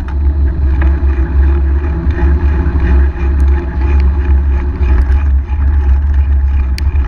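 Loud, steady low rumble of wind and road noise while riding a bicycle, picked up by a GoPro whose wrong back cover makes the sound boomy.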